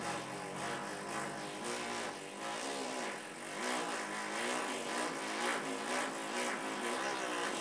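Lips buzzing in a sustained raspberry, the lip vibration that makes the didgeridoo drone. The air pressure is pushed stronger and softer, so the buzz swells and wavers in pitch in a loose rhythm.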